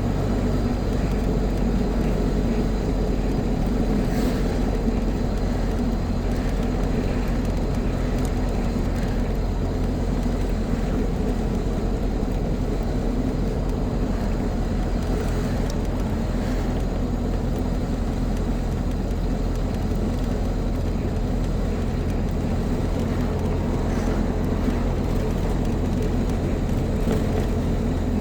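Car engine and road noise heard from inside the cabin while driving, a steady low hum with no change in pitch.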